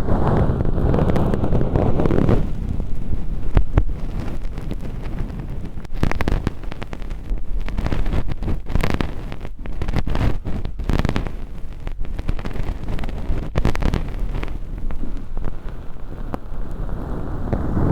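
Ear pick scraping and rubbing inside a silicone ear right at a binaural microphone, lifting thin flakes of fake earwax. It starts and ends with a deep muffled rubbing, with a run of quick dry scratches and clicks in between.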